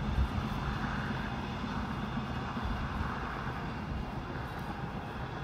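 Train hauled by an ED75 AC electric locomotive running past and receding, a steady rumble that slowly fades.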